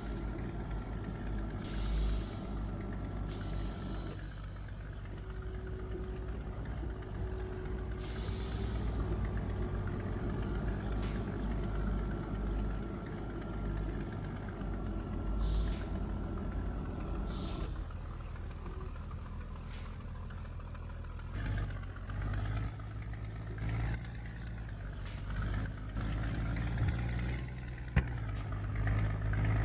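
Scania G124 truck's diesel engine running steadily, with short hisses of compressed air from the air brakes every few seconds.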